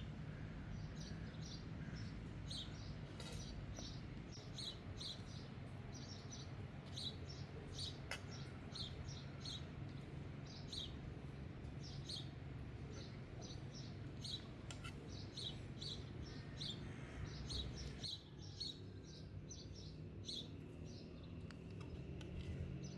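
Small birds chirping repeatedly in short bursts, over a low steady rumble that drops away about three quarters of the way through.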